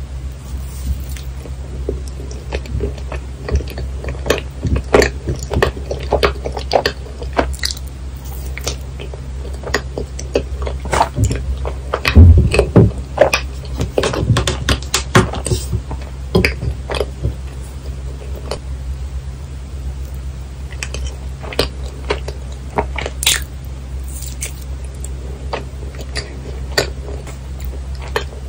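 Close-miked chewing of yakgwa, a chewy Korean honey cookie topped with vanilla ice cream, heard as soft, sticky, irregular mouth clicks and squelches. The chewing is busiest in the first half, with the loudest bite or chew about twelve seconds in, over a steady low hum.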